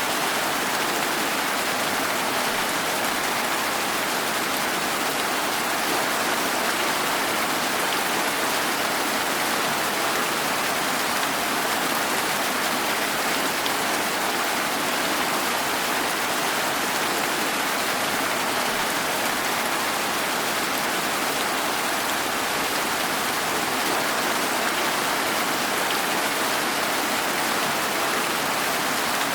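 Steady rain falling: an even, unbroken hiss of many drops with no thunder or other events.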